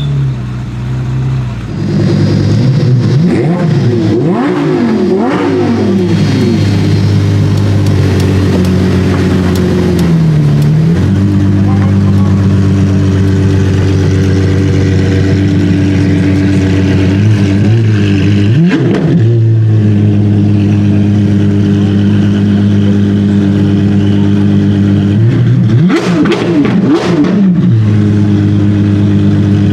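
Apollo Intensa Emozione's 6.3-litre naturally aspirated V12 being revved: a quick series of blips a couple of seconds in, then long spells held at a steady engine speed, with further sharp revs near the middle and again near the end.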